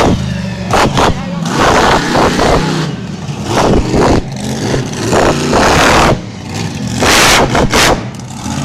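Monster truck engine revving hard in repeated loud surges over a steady low engine rumble.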